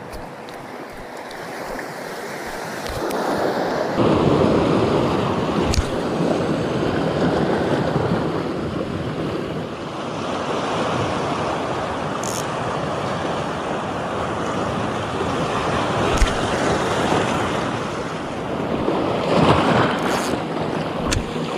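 Sea waves washing onto the beach, with wind on the microphone; the surf grows louder about four seconds in.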